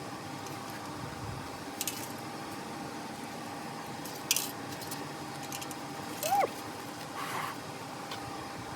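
A few light metallic clicks and clinks over a steady electrical hum, with a short squeak about six seconds in.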